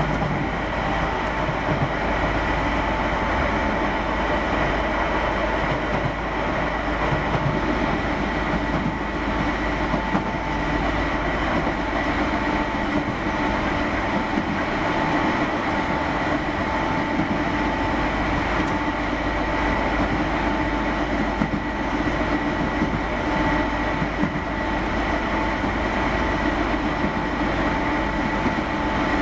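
Keihan 600 series electric train running at a steady pace: a constant rumble of wheels on rail with a steady whine held throughout.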